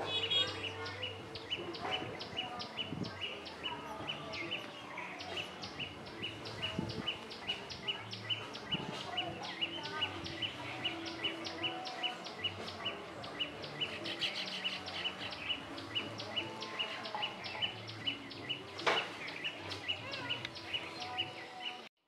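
A bird chirping steadily: one short high chirp repeated evenly, about two or three times a second, over a soft outdoor background.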